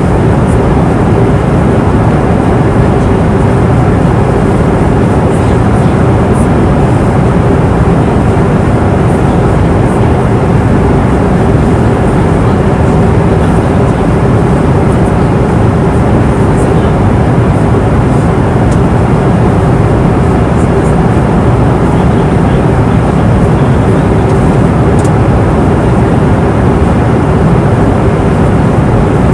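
Airliner cabin noise in flight: a steady, dense low rush of engine and airflow noise with a constant hum tone running through it.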